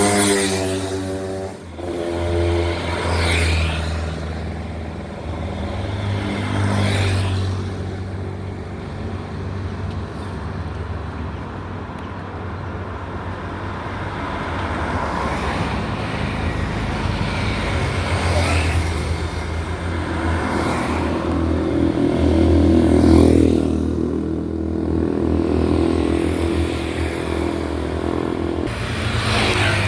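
Road traffic passing close by: engines running and tyres on the road, swelling and fading as one vehicle after another goes past, about half a dozen pass-bys. The loudest pass comes about three quarters of the way through.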